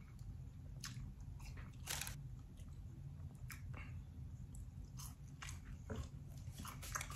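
Faint chewing of crisp sweet potato fries, with a few sharp crunches about a second apart.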